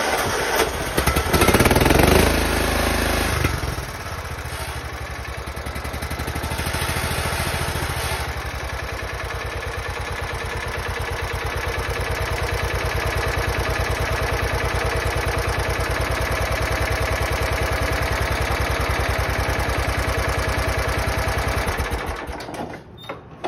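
John Deere engine cold-started after sitting for over a month. It runs loud and rough for the first few seconds, then settles into a steady, even run, and stops near the end.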